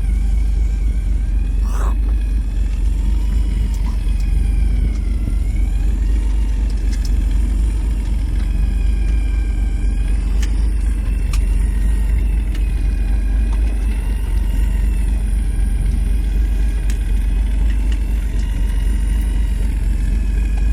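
Steady low rumble on board a deep-sea fishing boat, with faint high tones that waver slowly over it; the boat's running engine and wind on the microphone.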